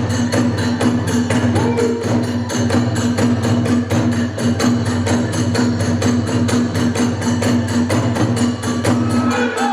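Kagura hayashi music: drums and hand cymbals keep a fast, steady beat of rapid strikes, with a pitched melody line rising near the end.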